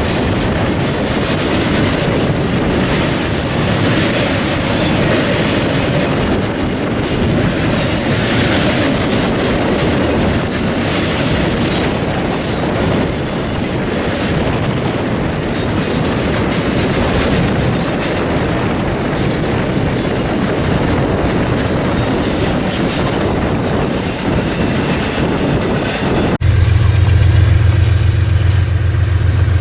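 Freight train cars rolling past on the rails, a steady loud rushing of wheels on track. Near the end it changes abruptly to a steady low engine drone.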